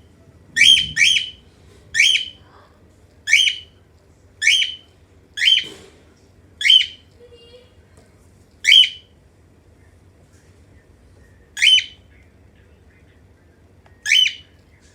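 Cockatiel giving repeated short, loud contact calls, coming every second or so at first and then further apart.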